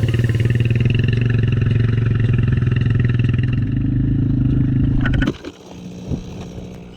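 Dirt bike engine running at a steady speed, cutting off abruptly about five seconds in, leaving a much quieter low rumble with a couple of faint clicks.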